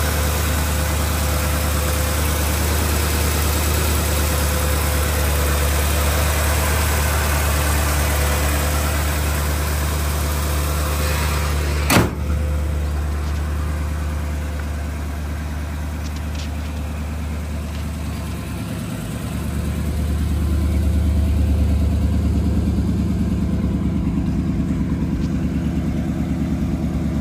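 1957 Chevrolet Bel Air's V8 idling steadily. About twelve seconds in comes a single sharp bang, the hood being shut, and the engine sounds more muffled after it. Later the deeper exhaust note swells louder at the rear of the car.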